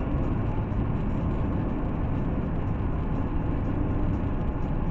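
Steady road and engine noise of a moving car, as picked up by a dashcam, with no impacts.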